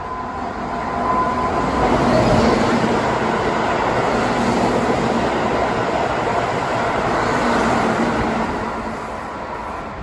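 Keihan electric train running past the platform, a steady rumble of wheels and motors that swells about a second in and eases off near the end.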